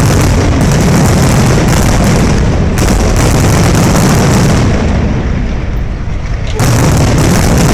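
Aerial firework shells bursting in a dense, continuous barrage of booms. It thins briefly about five seconds in, then a fresh volley starts abruptly near the end.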